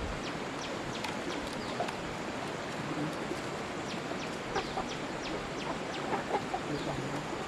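Chickens calling: repeated short, high, falling peeps, a few a second, over a steady hiss.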